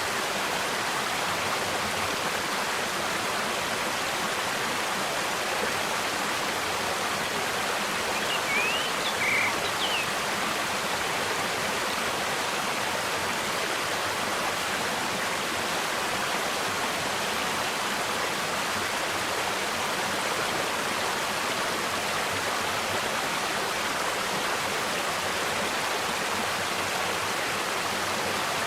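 Steady rushing of a mountain valley stream. A few short bird chirps come through about nine seconds in.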